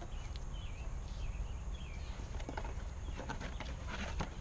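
A small bird chirping in short, curling twitters, then a run of light clicks and knocks about two and a half seconds in, over a steady low rumble.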